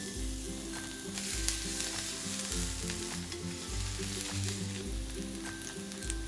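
A steady frying sizzle, a cooking sound effect for the pretend waffle, over light background music with bass notes about every second.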